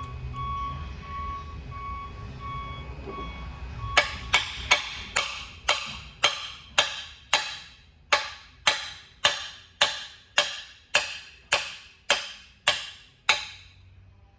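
Repeated hammer blows on metal, about nineteen sharp ringing strikes at roughly two a second, starting about four seconds in. Before them, an electronic alarm beeps steadily about twice a second over shop noise.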